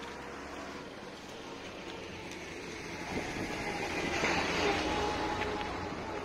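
A vehicle engine running, growing louder from about three seconds in and easing off near the end.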